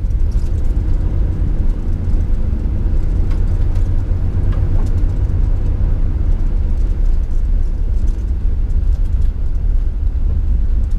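Camper van driving slowly, heard from inside the cab: a steady low road rumble with scattered light rattles and clicks.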